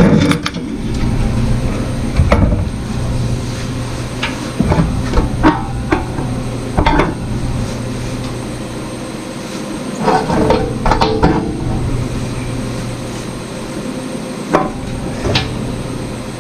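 Scattered knocks and short clatters of parts being handled, over a steady low hum.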